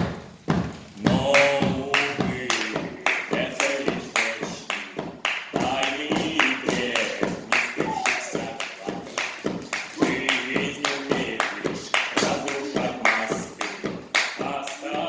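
Voices singing a cappella over a steady beat of sharp claps, about three a second.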